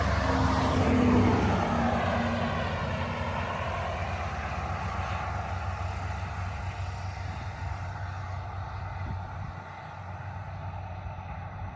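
A motor vehicle passing close by and fading into the distance, its noise dying away steadily with a sweeping, whooshing sound.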